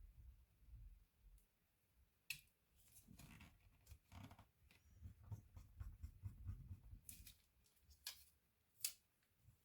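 Faint handling noises from laptop disassembly work: a few sharp, light clicks and soft rubbing between them, as of small tools and plastic or metal laptop parts being handled.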